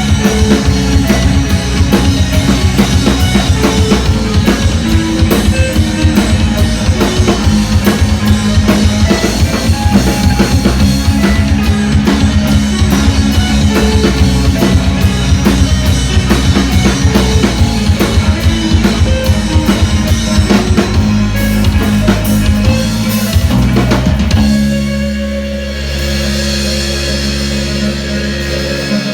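A band playing live, the drum kit driving a busy beat with bass drum and snare over held bass and guitar tones. About 24 seconds in, the drums drop out and sustained chords ring on.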